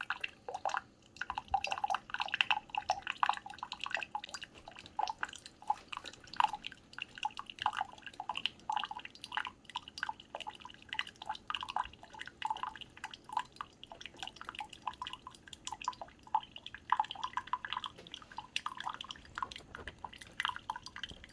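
Keurig K-Supreme Plus C single-serve coffee maker dispensing hot water with no pod in, for its first cleaning flush: a rapid, irregular patter of drips and splashes falling into the cup below.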